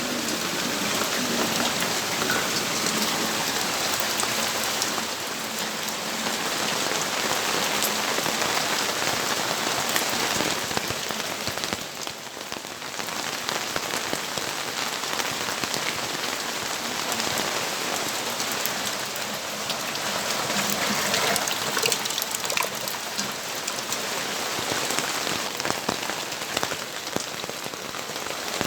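Steady rainfall, a dense hiss of rain with many individual drops ticking close by. It eases briefly about twelve seconds in, then carries on as before.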